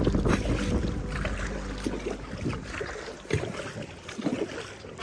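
Kayak paddling: irregular splashes of paddle strokes in the water, with background music that stops about two seconds in.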